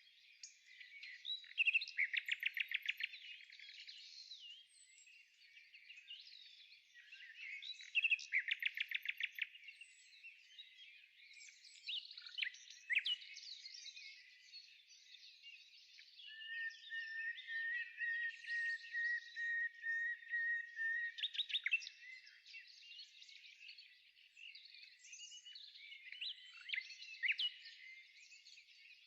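Small birds chirping and singing: quick rattling trills about two and eight seconds in, and a long, even trill lasting about five seconds midway.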